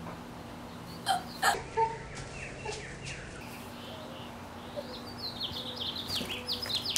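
Outdoor birds chirping: a rapid run of short, high, falling chirps in the second half. About a second in, three sharp clicks are louder than anything else.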